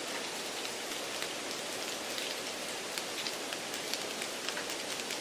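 Steady rain-like hiss with faint scattered ticks: background noise added to the test audio to simulate a poor exam room.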